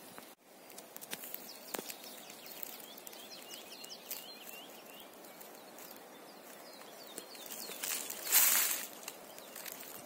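Forest ambience with a small bird singing faint, quickly repeated short chirps. Near the end comes a brief loud rustle in dry grass, with a few small clicks and ticks.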